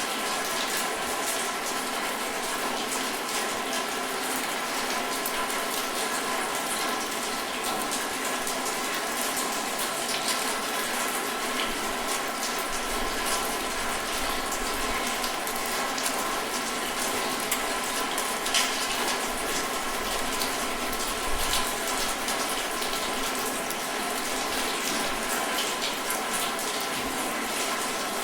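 Steady rainfall: an even, continuous hiss with scattered sharper drop hits.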